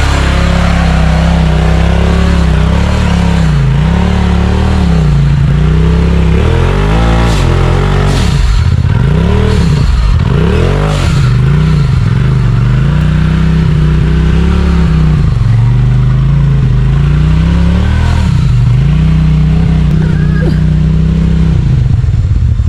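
Side-by-side UTV engine revving up and down again and again as it crawls over wet rock. A few sharp knocks come in the middle, about seven to eleven seconds in, and the engine drops toward idle near the end.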